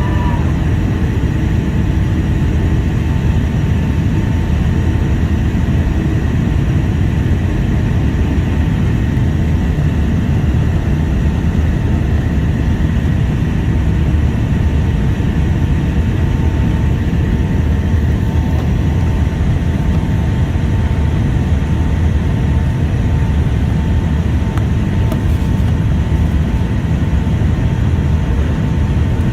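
Steady cabin noise of a Boeing 757-200 airliner in flight on its descent: a constant deep rumble of engines and airflow, with a faint steady whine running through it.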